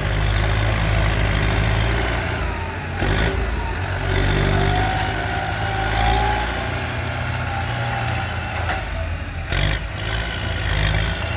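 Kubota M108S tractor's diesel engine working steadily under load while it pushes soil, its note shifting a few times, with two short bursts of noise about three seconds and nine and a half seconds in.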